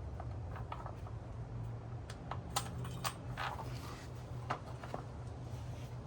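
Scattered small clicks and light metallic clinks of hand work with small metal parts and tools, over a steady low hum.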